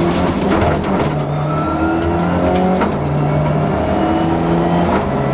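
Subaru Impreza rally car's flat-four engine at full load, heard from inside the cabin, its pitch holding and then stepping to a new level with each gear change, with several sharp cracks along the way.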